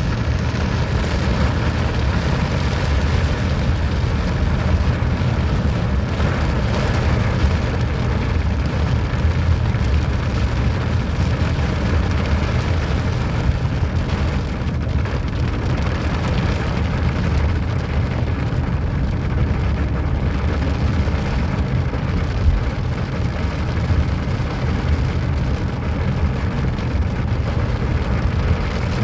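Steady rain falling, over a constant low rumble.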